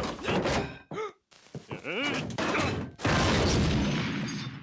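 Cartoon sound effects from the lit M-320 firework: a short rising yelp or gasp, then about three seconds in a sudden loud blast that fades away over about a second and a half.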